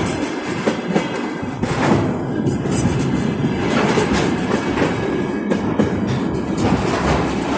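Train running on rails, a loud steady rumble with the wheels clacking irregularly over the rail joints.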